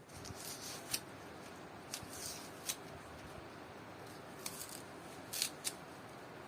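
Handling sounds of kitchen work: a few sharp clicks and short rustling scrapes at irregular intervals.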